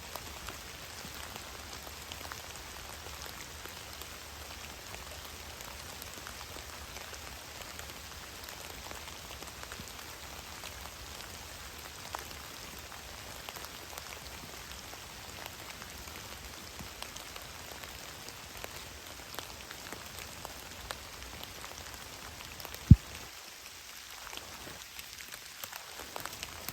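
Steady rain falling in the woods: an even patter with many small drop ticks. Near the end a single low thump stands out as the loudest sound.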